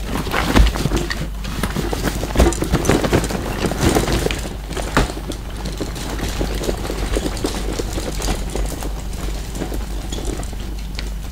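Heavy rain with wind: a steady rush under dense, irregular pattering and tapping of drops, busiest in the first half and lighter after.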